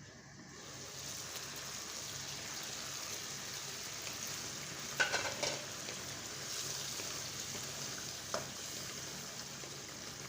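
Chicken in coconut milk sauce sizzling and bubbling in a pan, growing louder in the first second. A utensil knocks against the pan briefly about halfway through and once more near the end.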